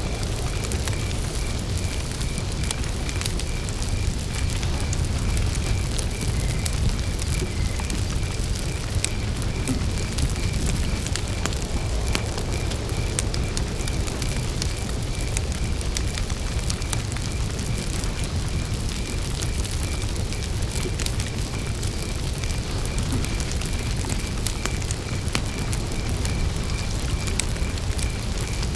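Wood campfire crackling, with frequent sharp pops over a steady low rumble of the flames. A cricket chirps steadily in a regular, evenly spaced pulse.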